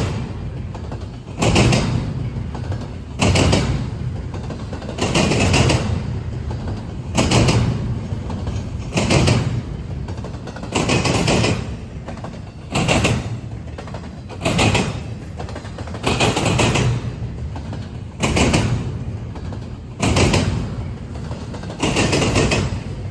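A passing train's wheels banging over rail joints or a crossing diamond, a loud clatter about every two seconds as each car's trucks go over.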